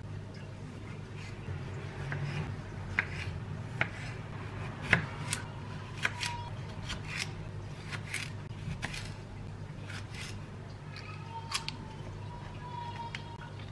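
Irregular small, sharp clicks and snips from hands at work, a dozen or so spread unevenly, over a steady low hum.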